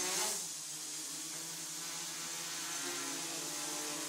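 X-BL Funpilot quadcopter's four brushless motors and propellers buzzing steadily as it hovers, the pitch wavering slightly as the motors adjust to hold position.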